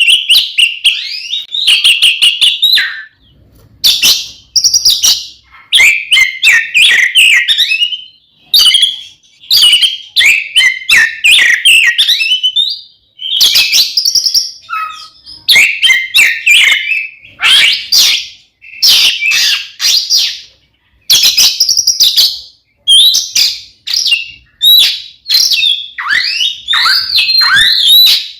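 Oriental magpie-robin (kacer) singing loudly: bursts of rapid, varied whistled and harsh phrases, each a second or two long, with short pauses between. This is the bird's full, aggressive fighting song ('ngeplong tarung'), the kind used to provoke a rival kacer.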